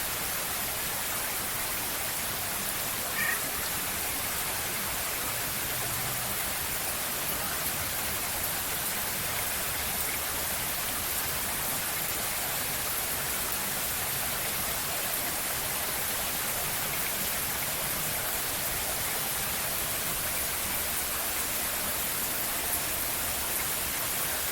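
Steady rain falling, an even hiss, with one brief high chirp about three seconds in.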